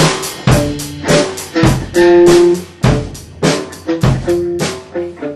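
Alternative rock band playing an instrumental passage: a drum kit keeps a steady beat of about two hits a second under guitar notes. The playing thins out near the end.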